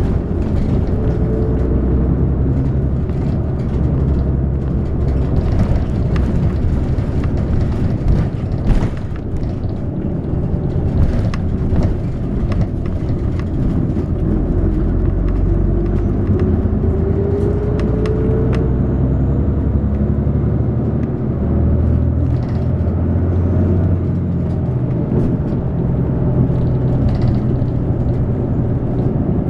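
City bus driving, heard from inside the passenger cabin: a steady low engine and road rumble, with a whine that rises in pitch twice as the bus gathers speed and occasional rattles and knocks.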